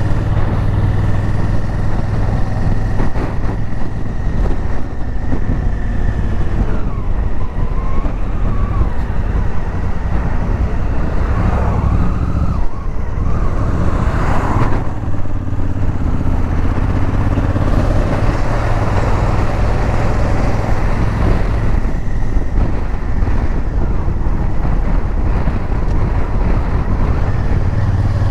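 Honda Africa Twin motorcycle being ridden at a steady speed: a steady low engine drone under road and wind noise, with a brief louder swell about halfway through.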